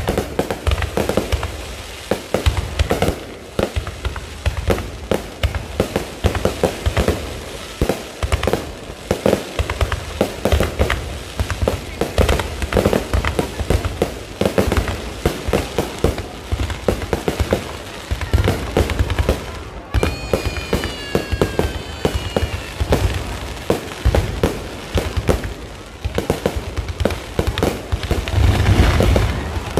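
Low-altitude fireworks display: a dense, irregular run of bangs and crackles, with a brief whistle about two-thirds of the way through.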